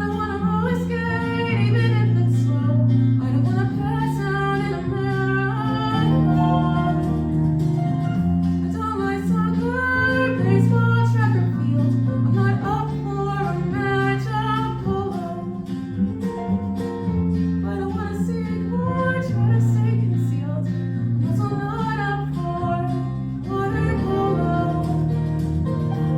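Song: a voice singing a melody over guitar accompaniment with a steady, changing bass line.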